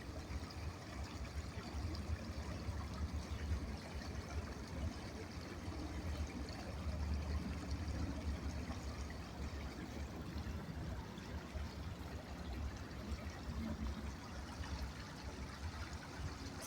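Small stream trickling and running over stones, a steady even rush of water.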